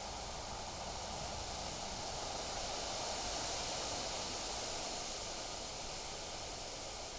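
Wind blowing through trees, a steady rustling hiss that swells slightly about halfway through.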